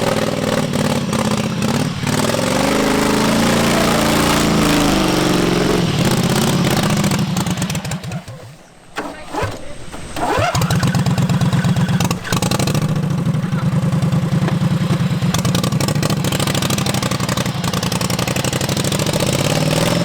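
Modified lawn tractor's small engine revving hard, its pitch rising and falling. About eight seconds in, the sound drops away for a couple of seconds, then the engine comes back and runs steadily at high revs.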